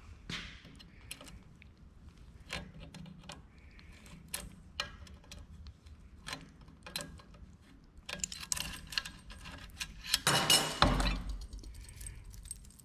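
Steel chain of an old chain pipe vise clinking as it is handled and put back together with new pins: scattered light metal clicks, then a louder jangle of the chain links about eight to eleven seconds in.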